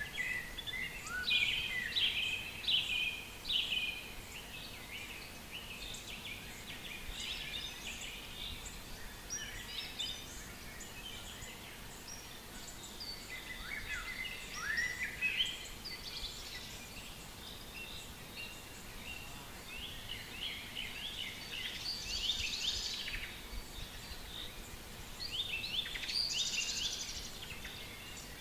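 Several wild birds singing and calling, many short chirps and trills overlapping, with busier bursts of song about a second in, around halfway, and near the end.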